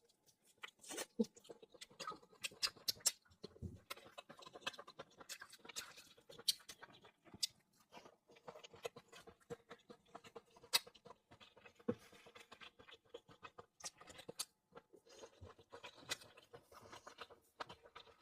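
Scattered faint clicks, taps and scratchy rustles of spicy sea hare being handled and eaten, several small ticks a second, with a few sharper clicks.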